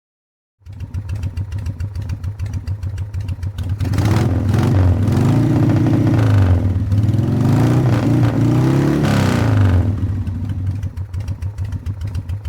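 Motorcycle engine running at idle, revved up twice between about four and ten seconds in, rising and falling in pitch, then settling back to idle.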